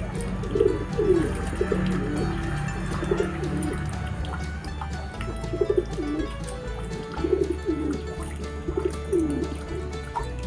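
A bird giving short, low-pitched calls that bend in pitch, repeated many times, over background music.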